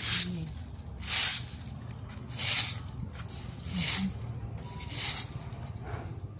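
A home-made twig broom sweeping dry, dusty ground with fallen leaves: five sharp swishes, about one every second and a quarter.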